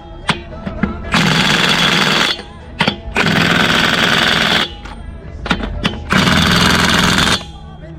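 Impact wrench hammering in three bursts of a second or so each, with short pauses between them, working a nut on a truck wheel hub. Sharp metallic clicks and clinks of tools fall in the pauses.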